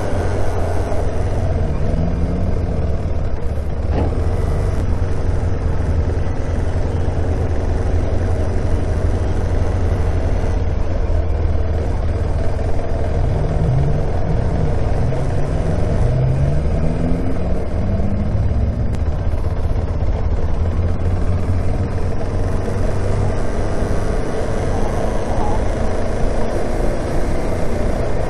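Motorcycle engine running under steady wind rush on a helmet-mounted mic while riding in traffic. The engine pitch climbs several times around the middle, as on acceleration.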